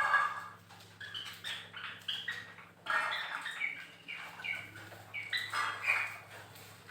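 A room full of caged pet birds chirping and squawking: many short, overlapping calls, with a steady low hum underneath.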